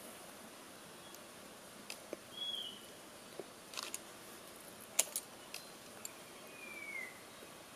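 Faint background hiss with a few scattered sharp clicks, the loudest about five seconds in, and two short whistled bird notes: one about two and a half seconds in and a longer falling one near the end.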